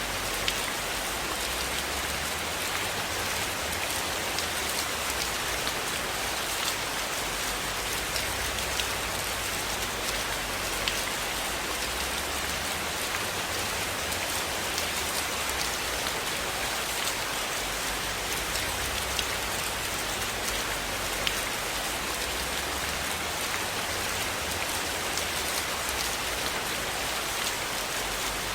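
Steady rain falling, a continuous even hiss dotted with scattered sharp ticks of individual drops.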